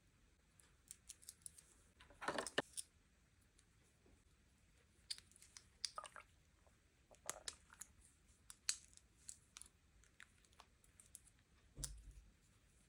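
Sweets and toy packaging handled close to the microphone: scattered soft clicks and crinkles. There is a louder crinkly rustle about two seconds in and a short low bump near the end.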